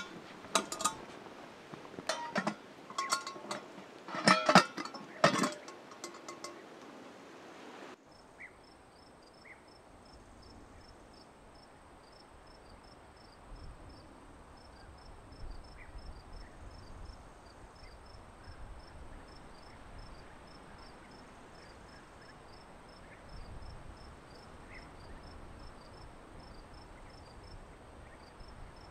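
A run of sharp clinks and knocks of hard objects for about six seconds. Then crickets chirping, a faint, even pulse about three times a second, over a steady high insect trill.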